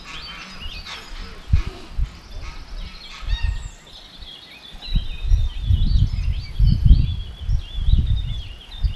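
Wind buffeting the microphone in heavy gusts from about halfway through, the loudest sound, under many short bird calls.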